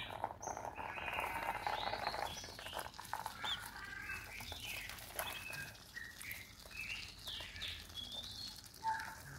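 Young whistling ducks calling: many short, high chirping whistles, overlapping and irregular.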